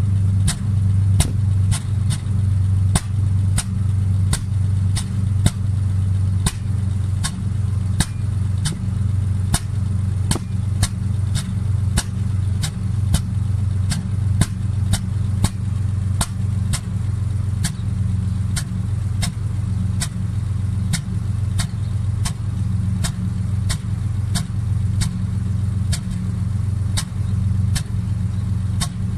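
Car engine idling with a steady low hum and a sharp tick roughly twice a second, the sputter of an ignition misfire.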